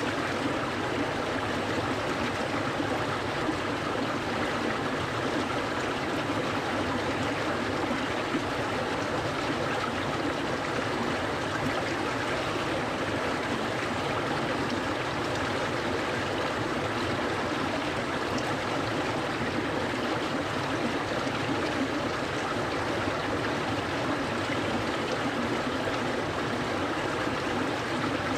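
Clear mountain stream flowing and rippling over rocks, a steady rushing babble.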